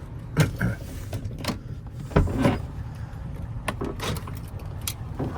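Keys and lock hardware being handled: a string of clicks and knocks, the loudest about half a second and two seconds in, over a low steady rumble.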